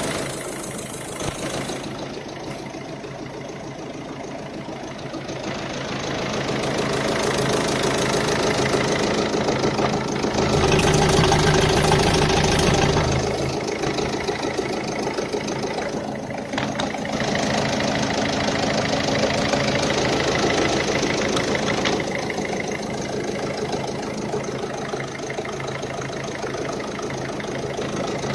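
Ford Focus II 1.6 TDCi (HHDA) four-cylinder diesel engine running at idle. It gets louder for a few seconds near the middle, as if briefly revved, then settles back to a steady idle.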